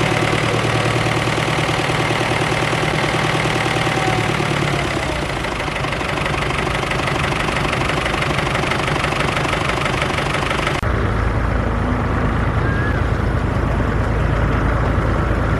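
Tractor engines running steadily; about eleven seconds in the sound switches abruptly to a deeper, heavier-sounding engine.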